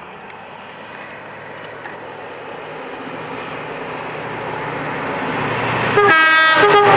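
Train approaching at speed on the main line, its rumble growing steadily louder, then about six seconds in it sounds a loud two-tone horn, a higher note followed by a lower one.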